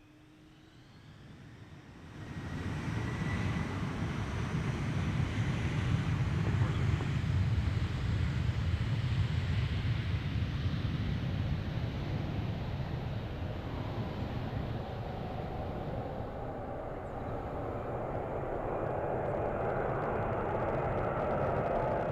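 Jet engines of the Lockheed L-1011 TriStar carrier aircraft, three turbofans, rising from near quiet to a loud, steady rumble about two seconds in, as the plane departs. The noise grows louder and higher-pitched near the end.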